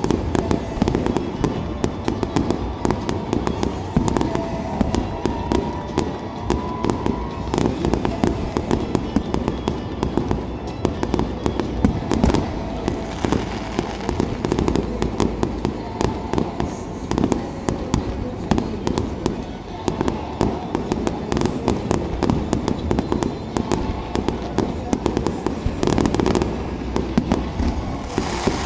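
Aerial firework shells bursting in a dense, continuous barrage: many booming bangs and crackles in quick succession, with no let-up.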